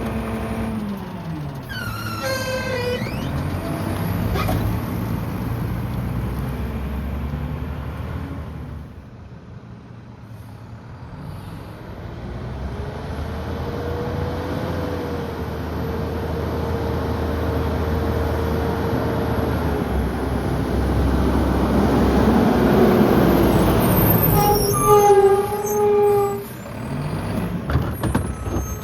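Garbage truck running under load: a Mack LEU diesel engine works the McNeilus rear loader's hydraulic packer, with a steady engine rumble and a held whine. The level drops briefly about a third of the way in, then builds again. High squeals come near the start and again near the end.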